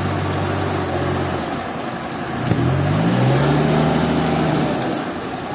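An engine running steadily, dipping and then revving up about two and a half seconds in, then holding at the higher speed.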